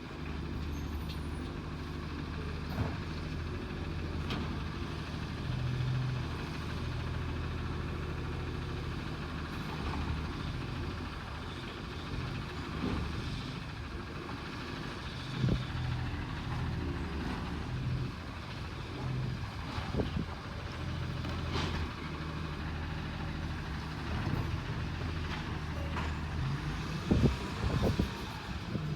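Recycling truck's diesel engine running steadily, with a few sharp knocks and clanks, the loudest near the end.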